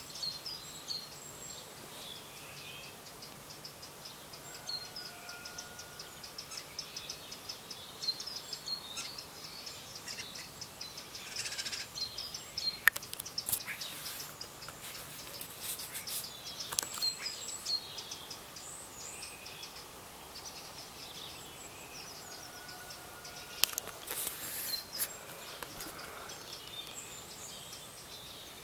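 Several songbirds singing and chirping in the morning: many short high chirps and trills overlapping, with louder bursts of song about twelve seconds in and again near the end.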